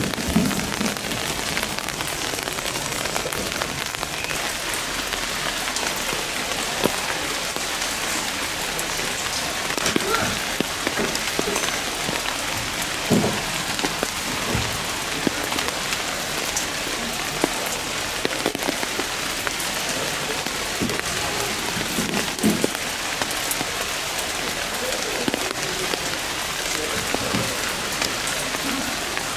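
Steady rain falling, with now and then a louder drip or knock.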